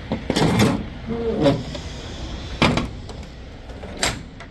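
Rear swing doors of a semi-trailer being unlatched and opened, a handful of sharp clanks and knocks about a second apart.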